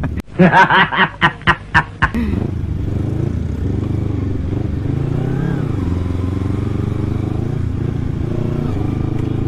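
Kawasaki Ninja 250 carbureted parallel-twin engine through an Akrapovic exhaust, heard from the moving bike. About six loud short bursts in the first two seconds, then the engine runs steadily with its pitch rising and falling a little in the middle.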